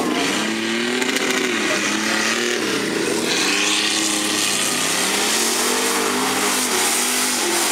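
Competition truck engine revving hard, its pitch rising and falling several times over a dense running noise.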